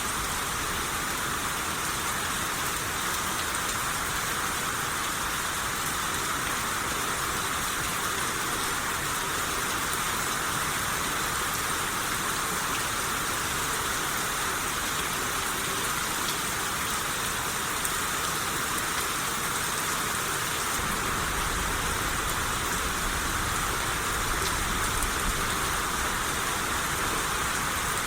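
Steady rain shower falling on surfaces, an even hiss of raindrops, with a slight low rumble joining in about two-thirds of the way through.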